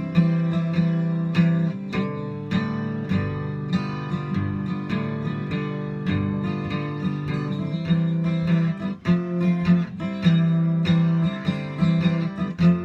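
Acoustic guitar playing an instrumental break in a slow blues song: a steady run of plucked and strummed notes, with no singing.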